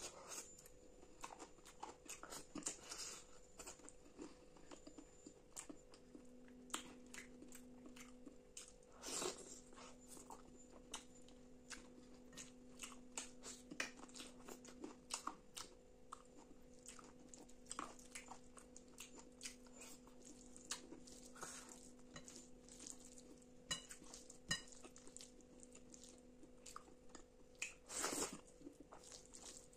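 Close-miked eating sounds: wet chewing, lip smacks and short mouth clicks as handfuls of butter chicken and rice are eaten by hand, with a few louder bites about nine seconds in and near the end.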